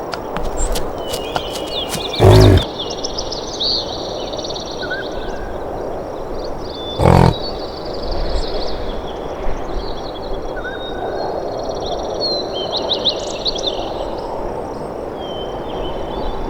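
A big cat giving two short, loud calls, one about two seconds in and one about seven seconds in, over a steady outdoor background hiss with many short, high bird chirps.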